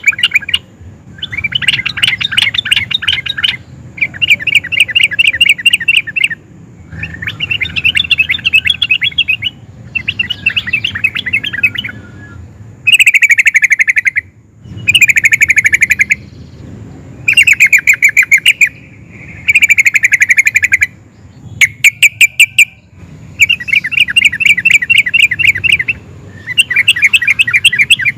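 Yellow-vented bulbul (trucukan) singing in repeated bouts of rapid, rolling chattering notes, each burst lasting a couple of seconds with short pauses between. The bursts in the second half are louder and sharper.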